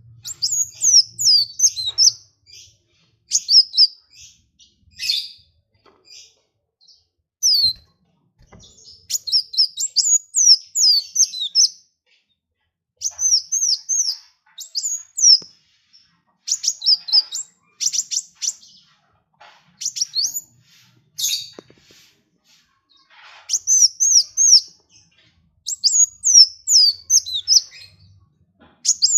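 A small songbird singing bursts of rapid, high-pitched twittering chirps and quick sweeping notes, phrase after phrase with short pauses between.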